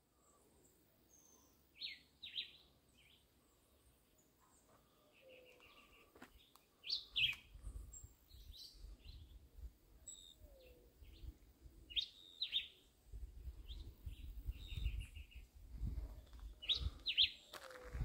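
Birds calling: one bird repeats a short two-note call about every five seconds, with fainter chirps and trills in between. A low rumble comes in during the second half.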